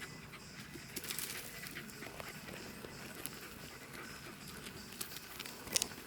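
Welsh corgi panting on a walk, with scattered light clicks and rustles and a sharper click near the end.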